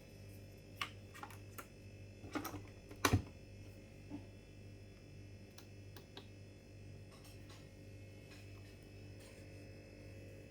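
Coffee maker giving a faint steady electrical hum, with a few light clicks and a sharper knock about three seconds in, like a lid, button or cup being handled.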